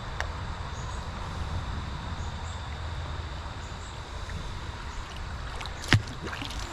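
Creek water flowing steadily over a low rumble, with one sharp knock near the end.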